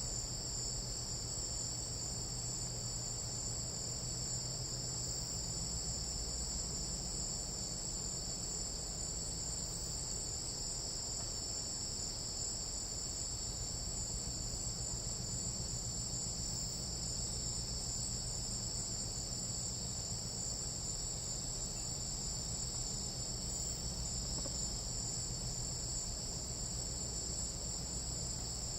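A chorus of tropical night insects, trilling steadily in two high-pitched bands, over a low rumble.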